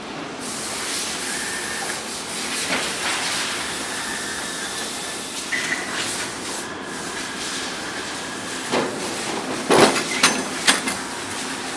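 Factory-floor machinery noise in an engine plant: a steady hiss with a faint held whine, then a few sharp metallic knocks close together near the end.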